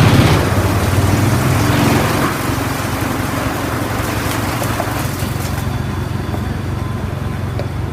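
BX218D drum wood chipper running: a loud rush of wood being chipped for the first two seconds, then the machine running steadily with a low drone and a few small ticks.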